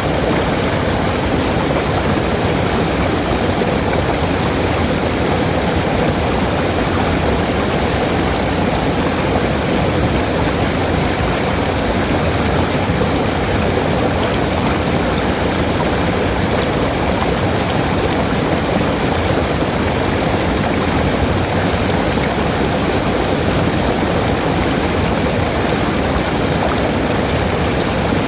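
Waterfall water pouring steadily, an even rushing that does not change.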